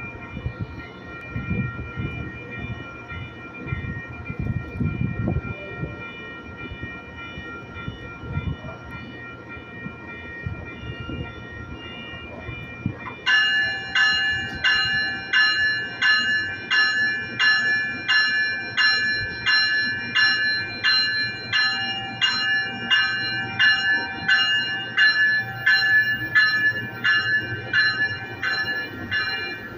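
Metrolink bilevel commuter train rumbling as it starts to pull out, with a steady high whine. About halfway through, a warning bell starts ringing in a steady rhythm of about one and a half strikes a second and keeps on.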